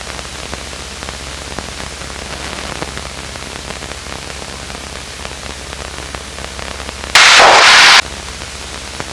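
Small aircraft's cockpit audio through the headset intercom: a steady low engine drone under hiss, with faint scattered static crackles. About seven seconds in, a loud burst of radio static lasts about a second and cuts off sharply.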